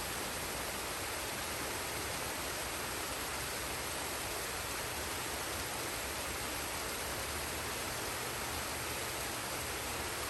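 Forest waterfall and stream: steady rushing of falling and flowing water with no changes.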